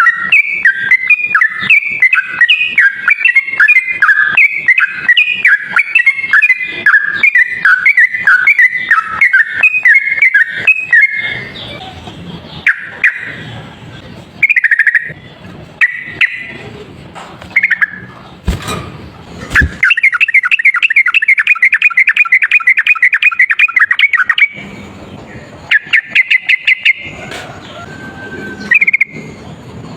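Sooty-headed bulbul (trucuk) singing a loud, rapid chattering song: a long run of quick repeated notes, then a stretch of scattered short phrases, then another fast trill about two-thirds of the way through, and short bursts near the end.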